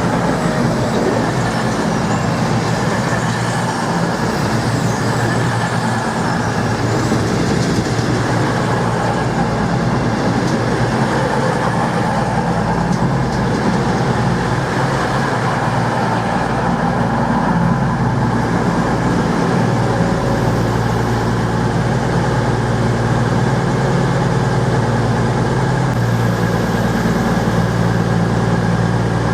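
CrossCountry diesel passenger train coming into the platform, its diesel engines running steadily. The low engine hum grows stronger in the second half.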